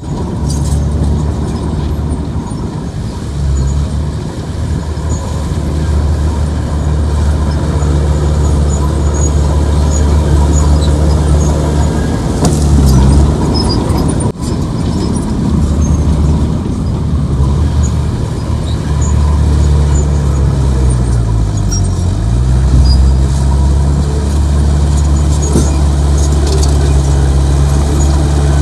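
Heavy earthmoving machine's diesel engine running under load. Its low drone dips in pitch and climbs back twice, near the middle and again about three-quarters of the way through.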